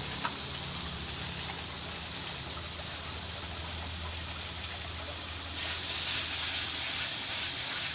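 Ground chili spice paste frying in oil, a steady sizzle that grows louder about five and a half seconds in.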